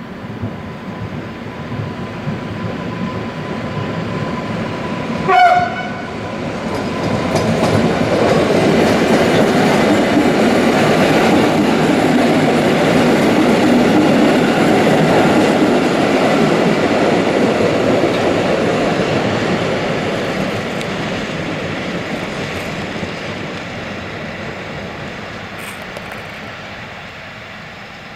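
EN57AL electric multiple unit approaching and running past, with wheels clattering over the rail joints. It gives one short horn blast about five seconds in. Its running noise swells to a peak in the middle and then fades as it moves away.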